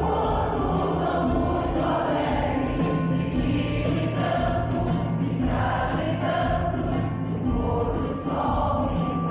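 Choir singing with instrumental accompaniment, a light percussion beat ticking steadily in the high end.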